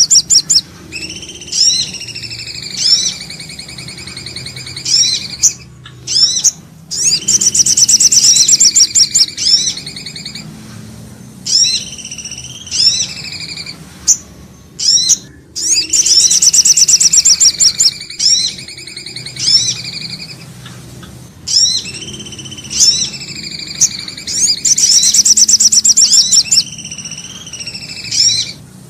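Bird-lure recording of songbird calls for sirtu/cipoh and sogo ontong birds: a rapid high trill, then a run of clear whistled notes with sharp upward flicks. The same sequence repeats about every eight and a half seconds, as a looped lure track.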